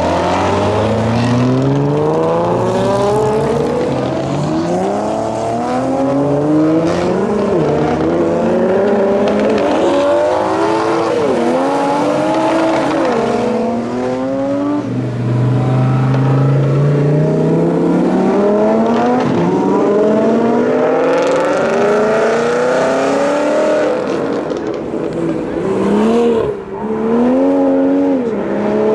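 High-performance car engines accelerating hard one run after another, each engine's pitch climbing through a gear and dropping sharply at each upshift. Near the end an engine revs up and down.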